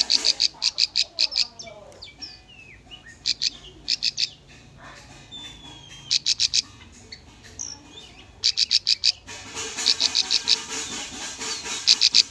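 Bar-winged prinia (ciblek) song: bouts of rapid, high repeated chirps, roughly ten notes a second, each bout lasting up to about a second. The bouts are separated by pauses filled with softer slurred whistles and calls.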